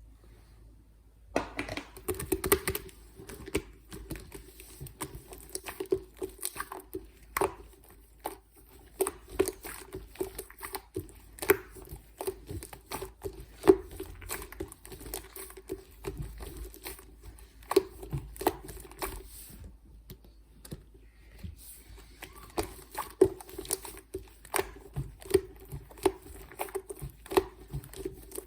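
Hands playing with slime, pressing and stretching it so that it makes frequent irregular sticky pops and crackles. It starts about a second and a half in, with a short lull a little past the middle.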